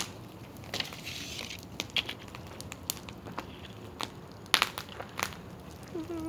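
Wood bonfire crackling, with irregular sharp pops and snaps and a strong double pop about four and a half seconds in.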